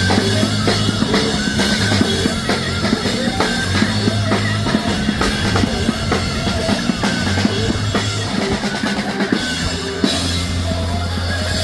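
Rock music driven by a drum kit, with bass drum and snare hits coming thick and fast over sustained low bass notes.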